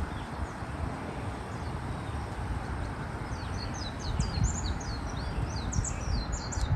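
Steady outdoor background noise with low rumbles; from about three seconds in, a small bird sings a rapid run of high, quick chirps.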